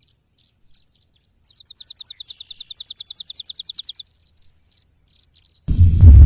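Bird trill: a fast run of high chirps, about a dozen a second, each dropping in pitch, with a few faint scattered chirps before and after. Near the end a sudden loud low rumble cuts in and carries on.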